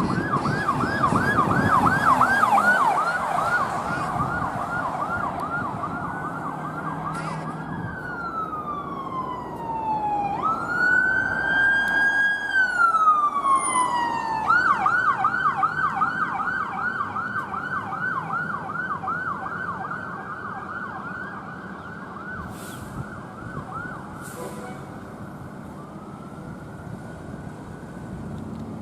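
Emergency vehicle's electronic siren on a fast yelp for several seconds, changing to a slow wail that falls, rises and falls again around the middle, then back to the yelp, which grows fainter as the vehicle moves away.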